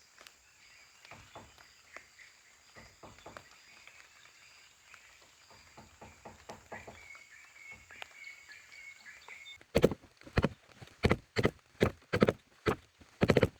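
Faint scattered rustling under a steady high-pitched buzz. About ten seconds in, a run of sharp knocks starts, roughly two a second, and becomes the loudest sound.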